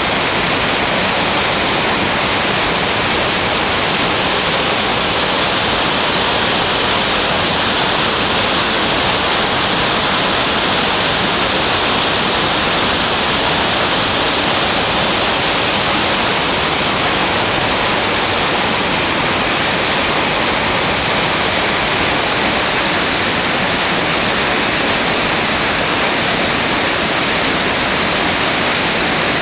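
Rushing water of a mountain torrent pouring over rocks, a loud, steady rush that never lets up.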